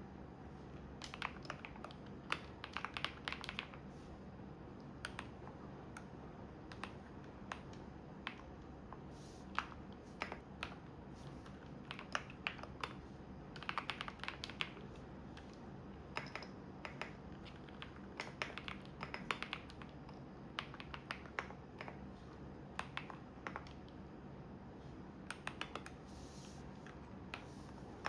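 Typing on a computer keyboard in irregular bursts of key clicks, with pauses between. Underneath, a washing machine runs with a steady low hum.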